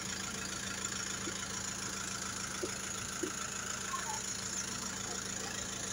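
Ice cream truck's engine idling steadily, with no jingle playing.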